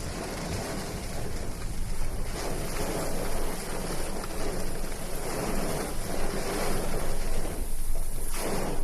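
Rushing water with wind buffeting the microphone, a steady noisy rush that dips briefly near the end.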